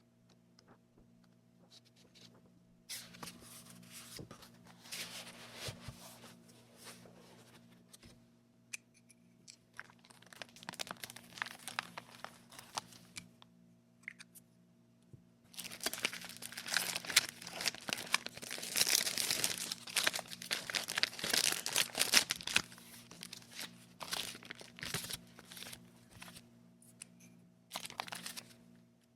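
Packaging being handled, crinkled and torn open in bursts, loudest and longest in a run of several seconds just past the middle, with quieter pauses between. A faint steady low hum sits underneath.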